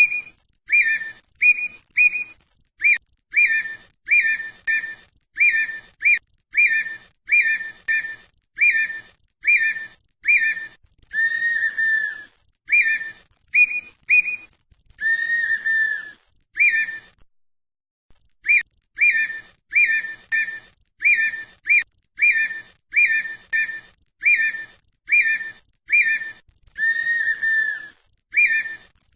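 Red-winged tinamou (perdiz) whistling its song: a run of short, clear whistled notes at about two a second, with a few longer, lower notes mixed in and one brief pause partway through.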